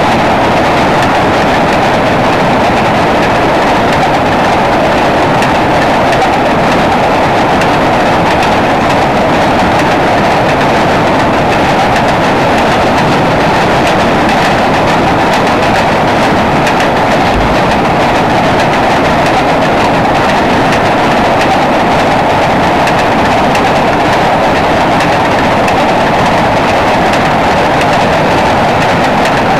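Freight cars rolling across a steel trestle bridge over jointed rail: a steady, loud rumble and rattle of wheels that doesn't let up.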